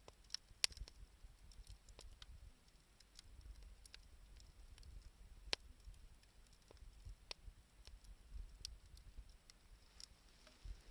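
Wood fire of scrap 2×4 lumber and scavenged wood crackling faintly, with scattered sharp pops. The loudest pop comes just under a second in, another at about five and a half seconds.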